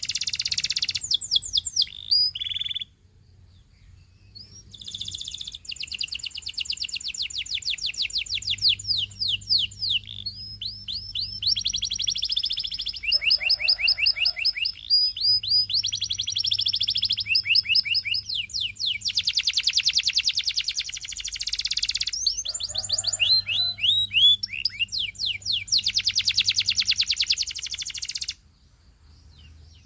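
Canary singing a long song of fast trills and rolls, rapid repeated notes with rising and falling sweeps. It breaks off briefly about three seconds in and stops near the end.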